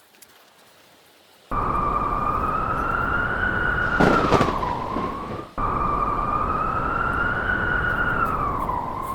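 Wolf howling: two long, drawn-out howls, each holding a steady pitch for about four seconds and then sliding down at the end. The second starts just after the first breaks off. A short, loud noisy burst comes partway through the first howl.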